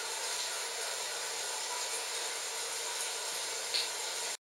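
Steady hiss of heavy, torrential rain, with a few short louder ticks; it cuts off abruptly near the end.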